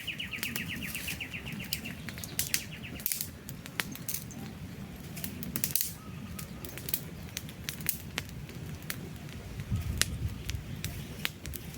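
Campfire burning: irregular sharp crackles and pops from the burning wood over a low, steady rumble of flame. In the first couple of seconds a bird's rapid high trill sounds over it and then stops.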